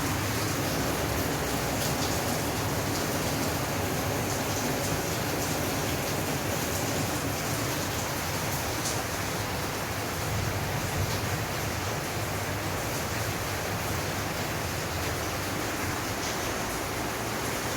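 Heavy, steady rain: a constant hiss with faint scattered drop ticks.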